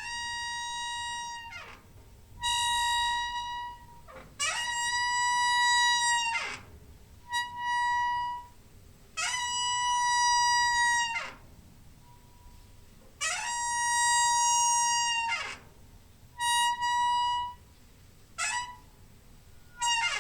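Squeaky door hinge creaking open and shut over and over: a series of high, steady squeals, some about two seconds long and some short, each sliding in pitch as it starts and stops.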